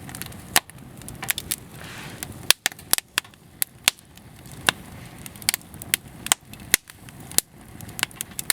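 Wood fire crackling, with sharp irregular pops and snaps over a low steady rush.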